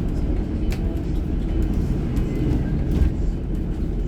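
Steady low rumble of a moving vehicle, with a couple of sharp clicks or knocks, one near the start and one about three seconds in.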